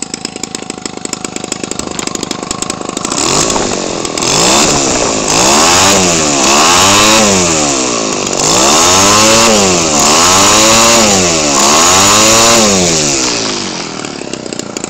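Homelite 25cc two-stroke engine, converted for RC aircraft with a 15 mm WT carburetor, idling with even firing pulses. It is then revved up and back down about five times and returns toward idle near the end. It picks up cleanly on each blip, its carburetor "dialed in".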